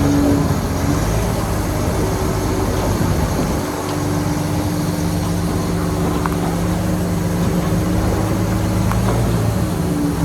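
Heavy diesel engine of earthmoving machinery running steadily, its note changing about four seconds in.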